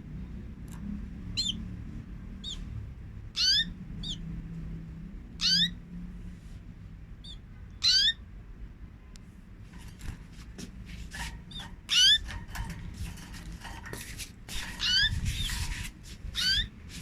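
Canaries giving short rising call notes, one every second or two, coming more thickly with extra chirps and clicks in the second half.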